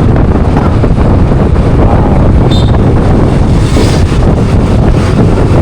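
Loud wind rushing over the microphone of a moving motor scooter, with road and engine noise underneath. A brief high tone sounds about two and a half seconds in.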